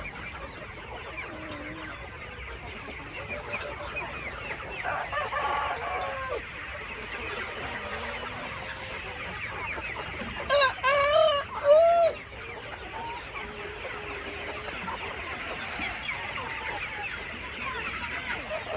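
A flock of free-range chickens clucking steadily, with many overlapping short calls. A rooster crows loudly about ten seconds in, and a fainter call rises from the flock around five seconds in.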